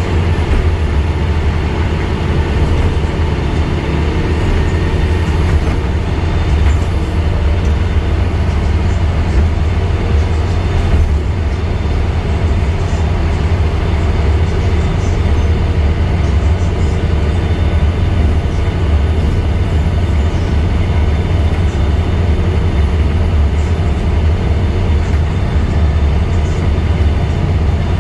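Scania N230UD double-decker bus's five-cylinder diesel engine running, a steady low rumble with road noise.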